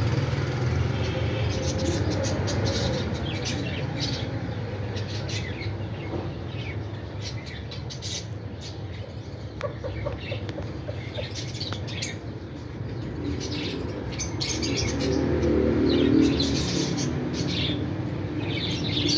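Pet birds chirping in quick, short high calls on and off, over a steady low background hum.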